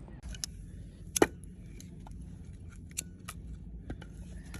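A few short, sharp clicks and knocks, the loudest just over a second in, over a faint steady background.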